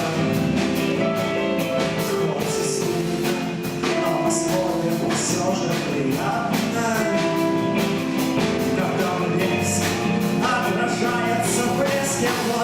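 Live rock band playing: electric guitars with bass and drums keeping a steady beat, and cymbal crashes.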